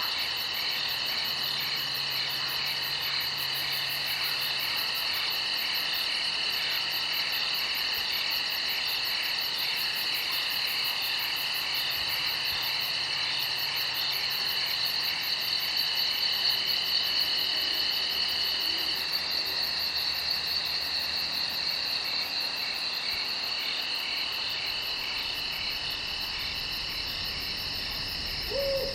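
Night chorus of crickets chirping steadily, several high continuous trills overlapping at different pitches, one of them pulsing rapidly. A short lower call breaks in right at the end.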